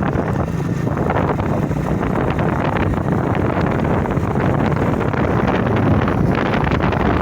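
Strong wind buffeting the microphone, a steady dense rumble with no clear pitch.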